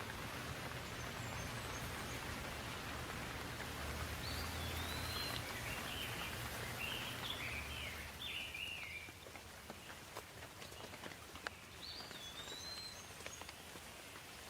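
Steady rain hissing, softening about nine seconds in, with a few sharp drips after that. A bird calls in a quick run of short chirps a few seconds in and again near the end.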